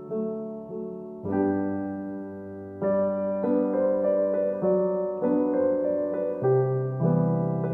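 Background music: a gentle solo piano piece, with soft chords struck every second or so and left to ring and fade.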